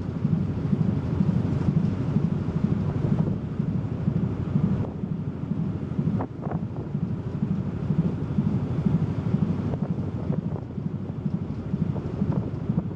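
Wind buffeting the microphone aboard a moving car ferry, over the ship's low, steady rumble.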